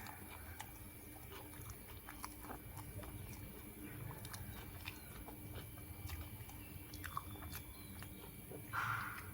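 A person chewing food close to the microphone, with scattered small clicks and crunches. Near the end there is a short, louder noise.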